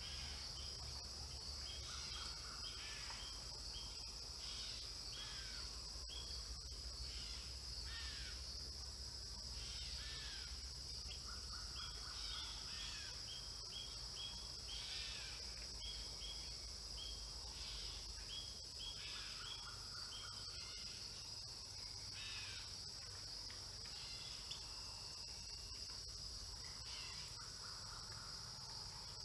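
Outdoor field ambience: a steady high-pitched insect chorus of crickets, with many short bird chirps and calls over it and a faint low rumble underneath.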